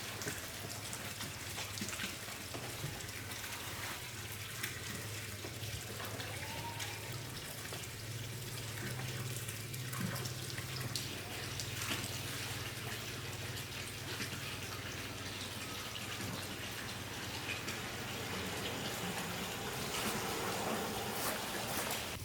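Water running or splashing, with scattered small clicks and a steady low hum beneath.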